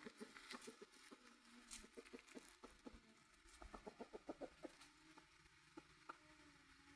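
Chickens clucking quietly, with a quick run of short, sharp sounds a little past the middle.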